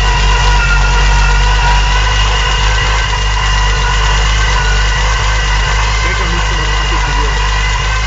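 Supercharged VW VR6 six-cylinder engine running steadily at idle, on its first start-up after the supercharger was fitted.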